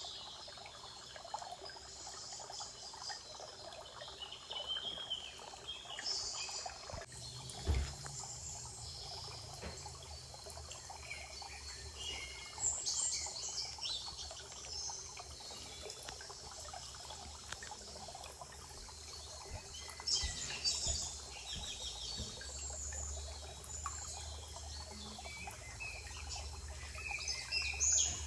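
Forest ambience: songbirds singing in short phrases every few seconds over a steady trickle of running water. A single low thump about eight seconds in, and a low rumble near the end.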